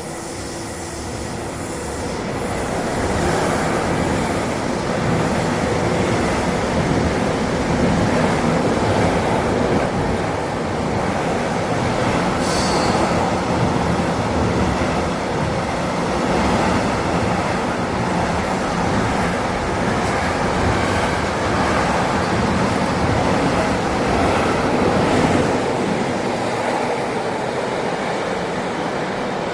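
Train running on the rails: a steady, loud rumble of wheels and cars that builds over the first few seconds and holds. A brief high squeal comes about twelve seconds in.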